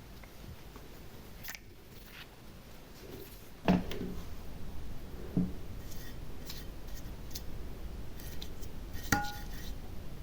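Small hard objects clicking and knocking as they are handled and set down. The loudest is a knock with a low thud about four seconds in, and a sharp click near the end rings briefly like glass.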